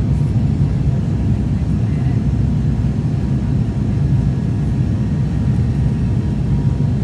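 Aircraft in flight, heard on board: a steady, low engine drone that does not change.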